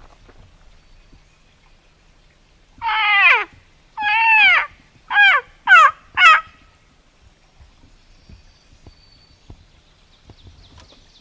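A series of five loud calls, each sliding down in pitch. The first two are longest and the last three are shorter and come quicker.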